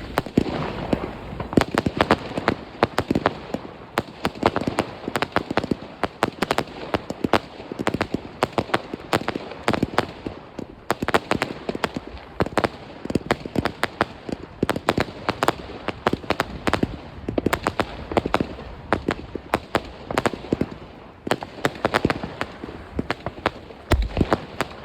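New Year's Eve fireworks going off all around: a dense, irregular barrage of sharp bangs and crackles, several per second, over a continuous rumble of more distant explosions.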